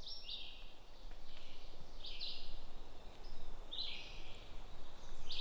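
A songbird repeating a short, harsh call that steps down in pitch, four times, about every one and a half to two seconds.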